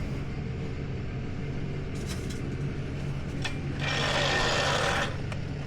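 Tow truck engine idling steadily, with a few light clicks and, about four seconds in, a hiss lasting over a second.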